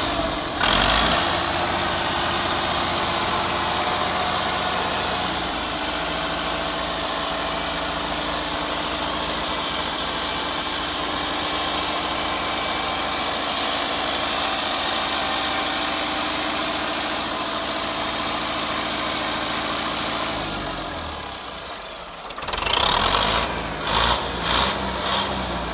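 Turbocharged Perkins diesel engine of a Massey Ferguson 375 tractor held at raised revs, running steadily with a thin high whine through the middle stretch. About 21 seconds in the engine eases off, then several short loud bursts follow near the end.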